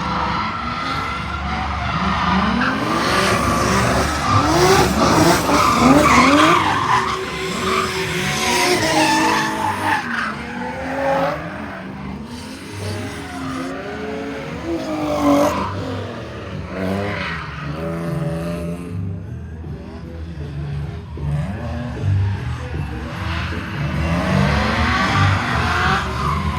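Drift car's engine revving up and down over and over, with tires skidding and squealing throughout.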